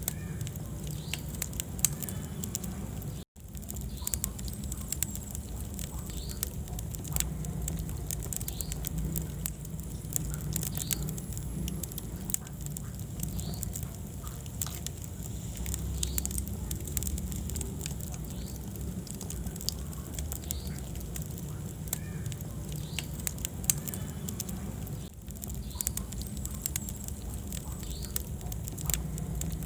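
Wood fire burning in a fireplace: frequent crackles and sharp pops over a low steady rumble of flames. The sound cuts out for an instant about three seconds in.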